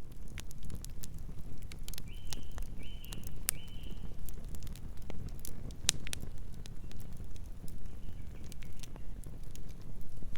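Campfire burning, with irregular sharp crackles and pops from the burning wood over a steady low rumble of the flames. Three short high chirps sound in a row about two seconds in.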